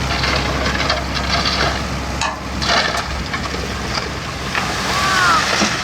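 Heavy earthmoving machine's diesel engine running, with clattering and rattling; the low engine hum drops away about halfway through, and a brief squeal comes near the end.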